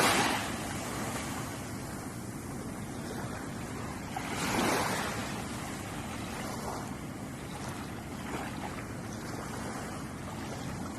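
Ocean waves washing onto the shore over a steady hiss of surf. One wave breaks at the start and fades, and another swells and washes in about four and a half seconds in.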